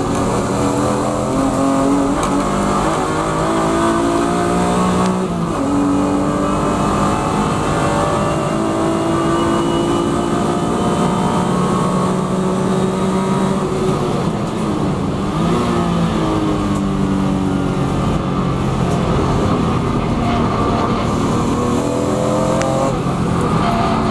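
BMW E36 M3 Evo race car's straight-six engine under hard acceleration, heard from inside the cabin. The revs climb, drop sharply at a gear change about five seconds in, then climb in a long pull. About two-thirds of the way through, the revs dip and rise again as the car slows, then they climb once more and are cut near the end as the car brakes for a corner.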